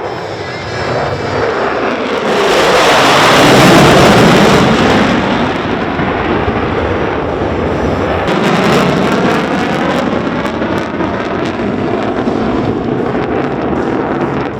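F-16 fighter jet roaring past in flight. Its engine noise swells to a loud peak about three to four seconds in and then fades, with a second, smaller swell around eight to nine seconds.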